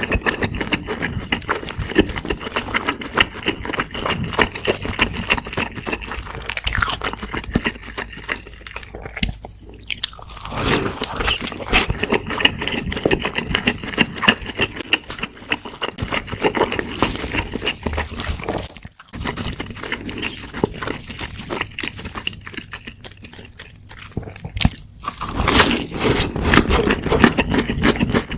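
Close-miked eating: crunchy bites and chewing, a dense, irregular run of crackles and crunches, with a brief pause about two-thirds through.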